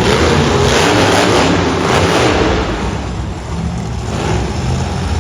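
Monster truck engine revving loudly in an arena, strongest in the first couple of seconds and easing off after about three seconds.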